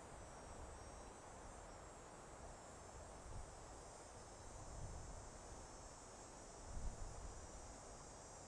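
Soft wind blowing through a forest, a steady hush with low gusts swelling about five and seven seconds in, under a faint, steady high chirring of insects such as crickets.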